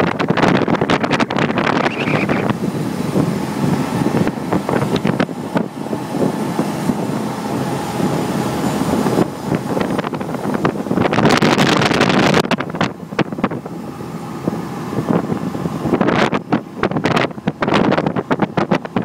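Strong wind gusting over the microphone on a small boat at sea, with the boat's engine running steadily underneath.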